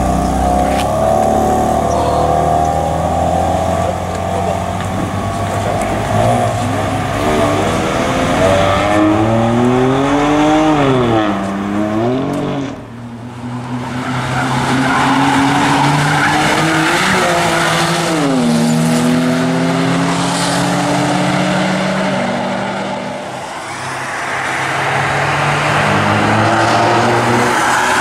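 BMW M4's twin-turbo straight-six accelerating hard past the listener, its engine note climbing and then dropping at the gear changes. The note fades as the car goes by, and more passes follow, the note rising and falling again.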